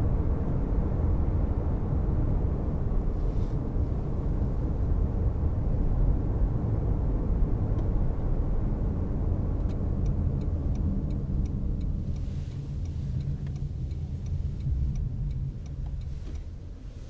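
Steady low road and tyre rumble inside the cabin of a Toyota C-HR 1.8 Hybrid on the move, growing quieter in the second half. From about ten seconds in, the turn-signal indicator ticks lightly and evenly, about three times a second.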